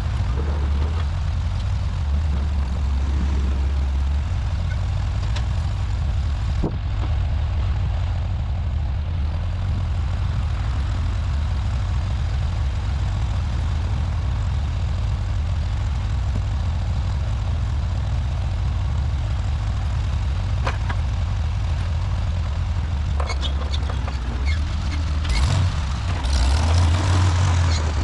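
An engine running steadily with a deep low hum, most likely a tractor's. There are a few knocks near the end, when it gets louder.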